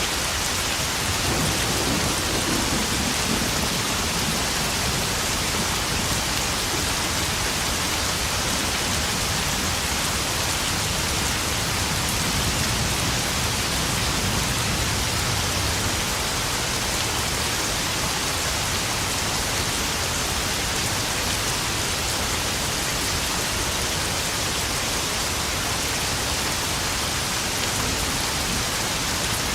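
Steady rain falling and pattering on puddles, with a low rumble of thunder about two seconds in and another around the middle.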